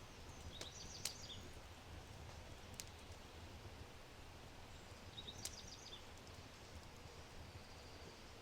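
Low oak fire in a brick fireplace giving a few sharp crackles, the loudest about a second in, over a quiet steady background. A small bird gives two short bursts of high chirps, about a second in and again about five seconds in.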